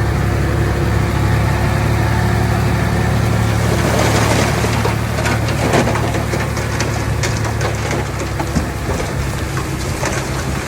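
Bulldozer's heavy diesel engine running steadily. From about four seconds in, it is joined by scraping and clattering, with many sharp rattles and clicks, as of soil and stones being pushed.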